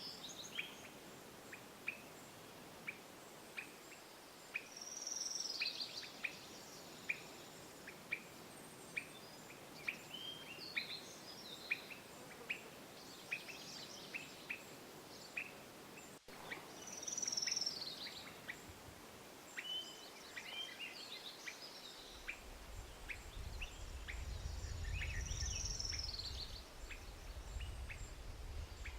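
Songbirds over the steady rush of a creek: one bird chips about once a second, and another sings a short falling phrase three times. A low rumble comes in about two-thirds of the way through.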